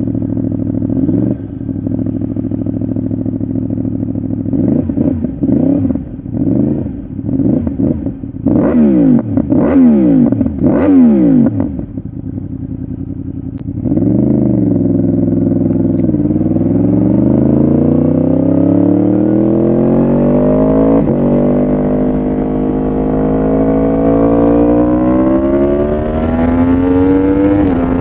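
Yamaha R1 inline-four through a full exhaust system, idling and blipped with several sharp throttle revs. About halfway through it pulls away under load, engine speed climbing steadily over some ten seconds with one brief break for a gear change.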